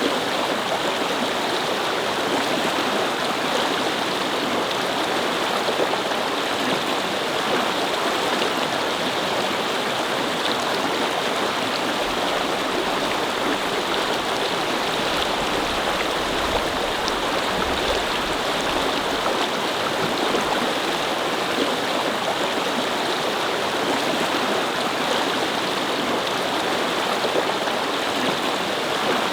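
Babbling brook: water flowing steadily with a continuous, even rush.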